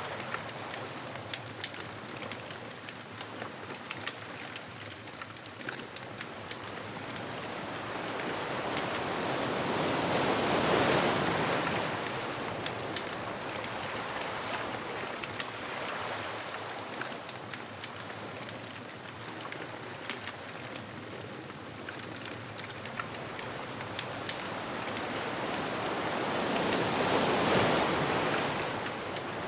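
Ocean waves breaking on the beach, the surf swelling up and washing down twice, about ten seconds in and again near the end, with a steady light crackle of a bonfire throughout.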